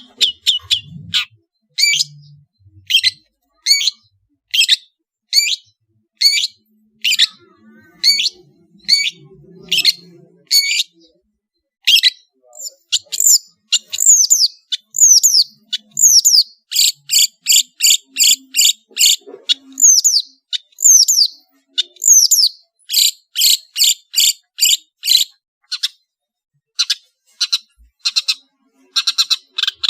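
Long-tailed shrike (cendet) singing a series of sharp, high-pitched notes, evenly spaced at one or two a second. In the second half it breaks into fast chattering runs and sweeping down-slurred notes.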